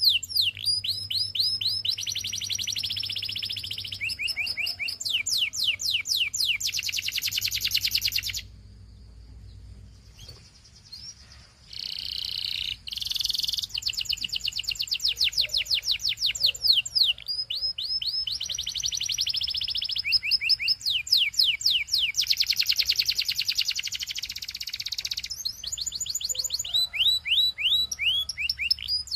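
Canary singing: long, rapid trills of quick repeated high notes in phrases that change speed from one to the next, with a short pause about a third of the way in.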